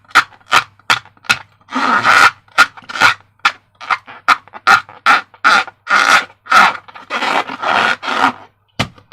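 A balloon being blown up with a run of short, quick puffs of air, about two to three a second, some puffs longer than others.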